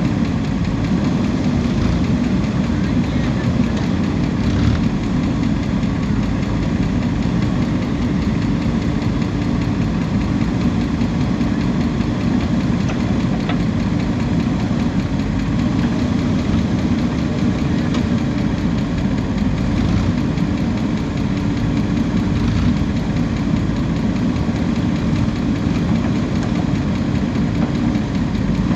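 Heavy diesel engine running steadily at an even speed, with no revving or change in load.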